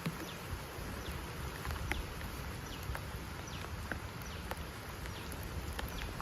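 Irregular drops tapping on a tent or tarp over a steady low rumble of wind, with faint short falling chirps now and then.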